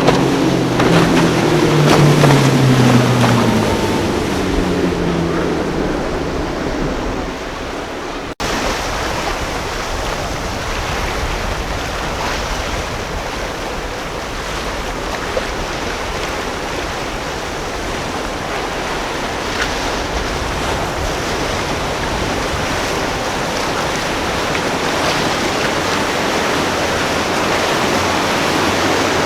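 A boat's engines running past with their pitch falling over several seconds. After a sudden cut, a steady rush of wind and surf.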